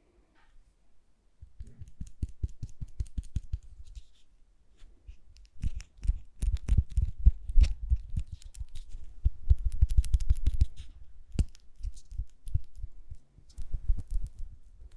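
Close-miked ASMR handling sounds: bursts of rapid tapping, crackling and scratching with soft low thumps, busiest in the middle and easing off near the end.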